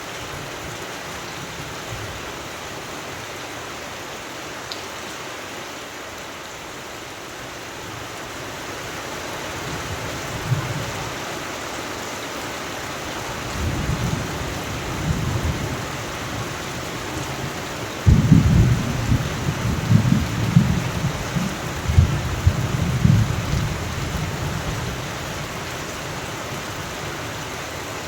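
Steady rain, with thunder rumbling in from about ten seconds in. A sudden loud thunderclap about two-thirds of the way through rolls on for several seconds, then dies back to the rain.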